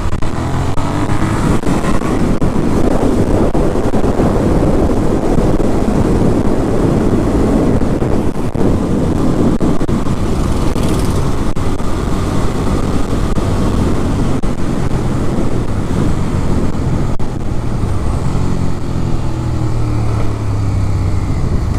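Motorcycle riding on the road: the engine runs under a steady rush of wind noise, and its pitch rises and falls near the end as it revs.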